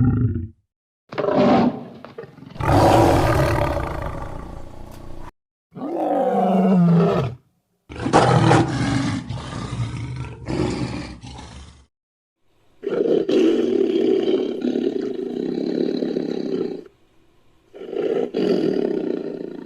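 Big-cat roars and growls made as sound effects for the Blue Tiger cryptid: about seven separate calls, some short and some three to four seconds long, each cut off abruptly with silence between.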